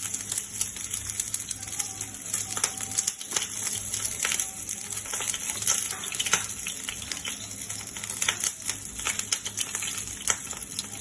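Hot oil sizzling in a pan as pumpkin-leaf-wrapped dried-fish fritters (shutki bora) fry: a steady high hiss with frequent sharp crackles and pops.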